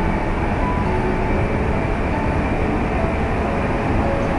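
Steady running noise of a passenger train, heard from inside the carriage: an even rumble of the wheels on the rails.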